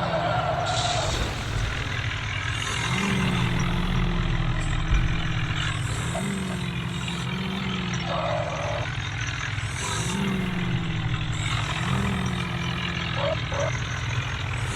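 Tractor diesel engine running, its pitch lifting briefly about every two seconds as it is revved, with short hissing bursts and a few brief higher tones over it.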